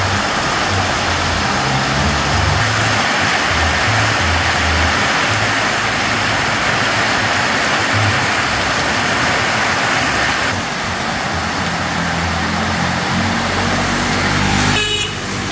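Heavy tropical rainstorm pouring steadily onto a flooded street, with a low bass line of music running underneath.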